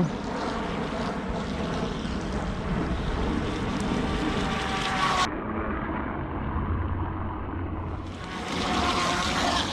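Electric motor of a Carrera Profi Speedray RC hydroplane boat running on the water: a steady motor whine over a hiss of water and spray.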